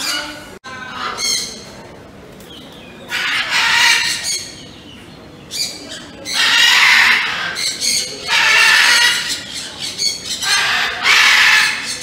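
Birds giving loud, harsh calls, each about a second long, with four long calls spread through the second half.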